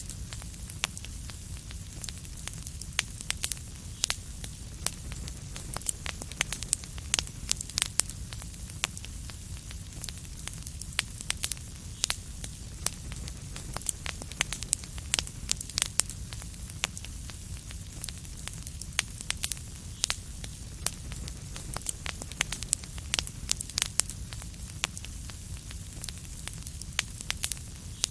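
Wood fire crackling: frequent sharp, irregular pops and snaps over a steady low rumble and a soft hiss.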